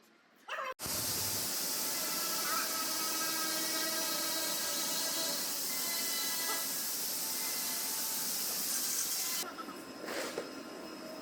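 A steady, loud hiss that starts abruptly about a second in and cuts off suddenly near the end, like a jet of air or spray.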